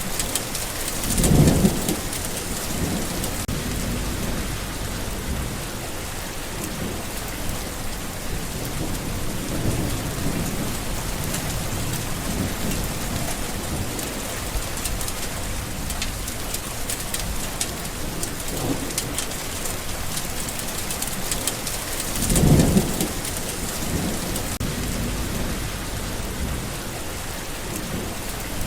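Steady heavy rain falling, with thunder. Two short, louder low rumbles come through, one about a second in and another about 22 seconds in.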